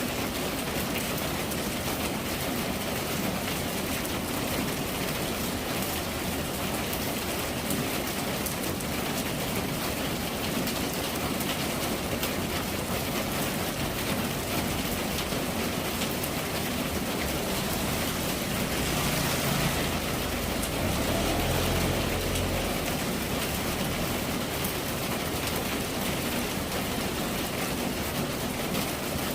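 Steady rain falling, an even dense hiss of drops. About two-thirds of the way through, a low rumble swells for a few seconds and fades.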